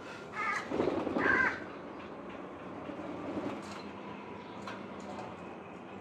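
Two short bird calls in quick succession, starting a little under a second in, each about half a second long, with a few fainter calls later over a steady low hum.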